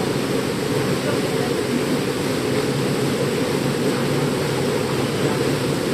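Waterfall's falling water rushing steadily, a deep, even wash of sound.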